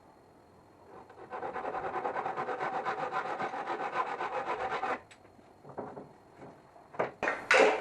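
A tool working wood: a fast, even rasping with a steady tone underneath for about three and a half seconds, then stopping, followed by a few sharp knocks near the end.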